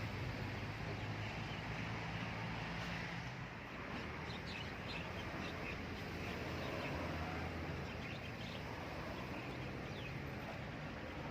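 Small birds chirping in quick short calls over a steady low motor hum and outdoor background noise.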